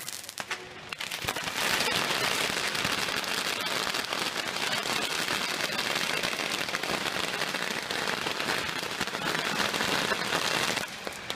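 Strings of firecrackers going off in a dense, continuous crackle that starts about a second and a half in and stops abruptly near the end.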